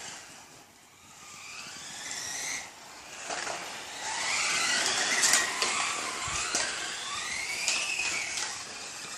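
1/10-scale RC race cars' electric motors whining, pitch rising and falling over and over as the cars speed up and slow down around the track, with a few sharp ticks midway.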